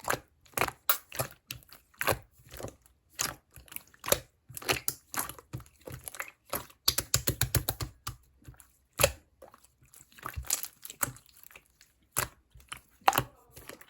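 Yellow clear slime being pressed and pulled by hand, giving irregular sticky pops and clicks, with a quick run of crackling pops about seven seconds in.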